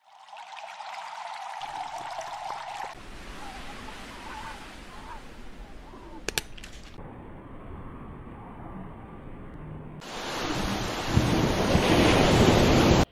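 Outdoor water and wind noise that changes abruptly several times, with a brief sharp click about six seconds in. Over the last three seconds comes the loudest part, ocean surf and wind rushing on a beach, which cuts off suddenly.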